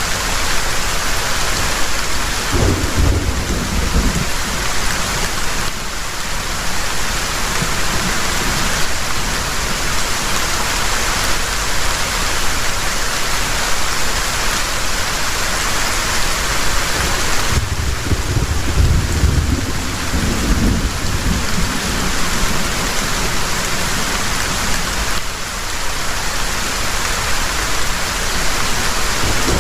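Heavy rain falling steadily, with thunder rumbling twice, about three seconds in and again after about eighteen seconds.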